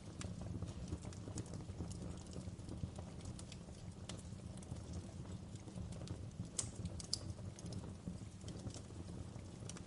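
Wood fire crackling in a fireplace: irregular sharp pops and snaps over a steady low rumble of the burning logs, with the loudest pops about six and a half and seven seconds in.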